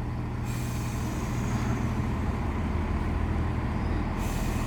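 Diesel engines of a CrossCountry Class 170 Turbostar multiple unit running steadily as a low, even hum. A faint high hiss joins near the end.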